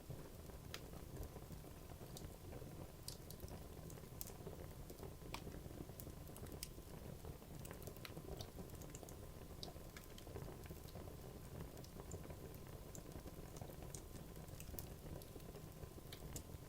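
Wood logs burning in a fireplace: a soft steady low rumble of the flames with frequent small, irregular crackles and pops from the wood.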